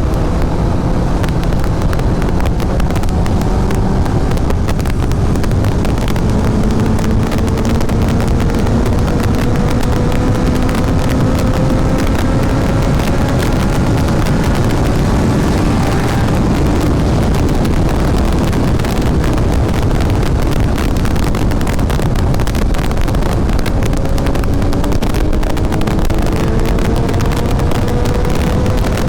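Sport motorcycle riding at speed under heavy wind noise on the microphone; the engine's pitch climbs slowly as the bike accelerates, drops off partway through, then climbs again near the end.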